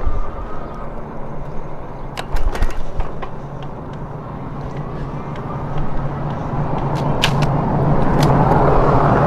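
Riding noise from an e-bike on a rough sidewalk: a steady rush with a low hum and a few sharp clicks and rattles. It grows louder over the last few seconds.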